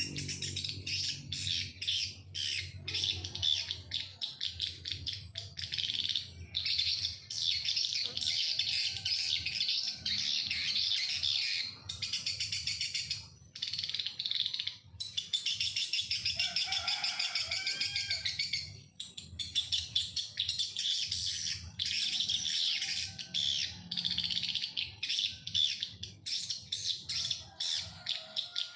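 Birds chirping and twittering rapidly and without let-up, high-pitched, breaking off briefly twice.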